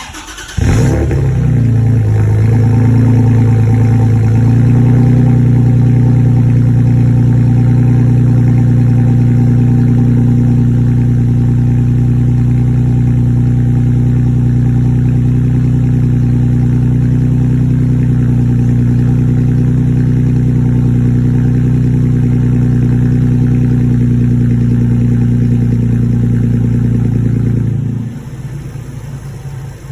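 Engine of a 3rd-gen Toyota Tacoma with a Carven aftermarket exhaust starting up: a brief flare that settles into a loud, steady idle. The exhaust note falls away sharply about 28 seconds in.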